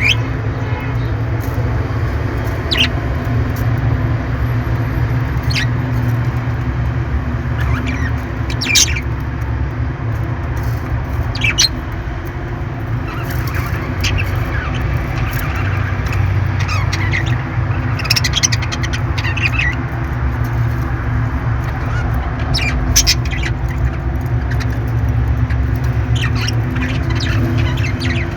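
Parrots giving short, scattered chirps and squawks over a steady low hum.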